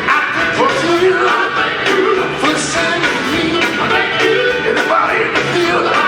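Gospel vocal group singing with band accompaniment and a steady drumbeat.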